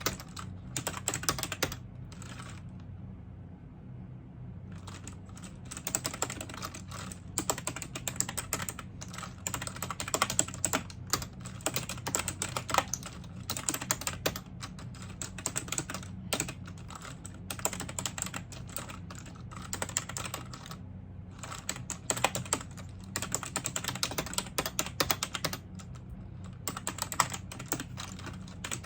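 Computer keyboard typing in quick runs of keystrokes, with a pause of about three seconds near the start and shorter pauses about two-thirds of the way through and near the end. A steady low hum sits underneath.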